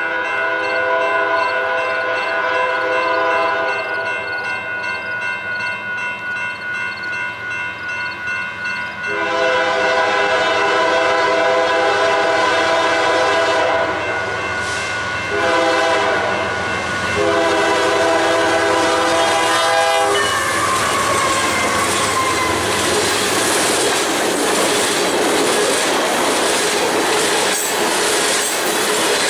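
Diesel locomotive air horn sounding a chord in a series of blasts: a long one, a louder long one, a short one and a final long one, as in a grade-crossing signal. The horn stops as the lead GE locomotive passes close by, and a loud rush of engine and wheel noise with rhythmic clickety-clack of the freight cars follows.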